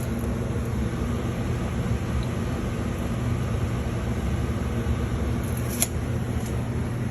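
Steady low mechanical hum and rumble from running machinery, with one sharp click about six seconds in.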